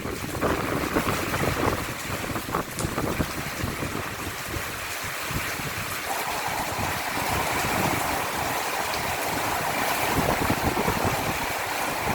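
Heavy rainstorm: a steady rush of rain, with gusts of wind buffeting the microphone.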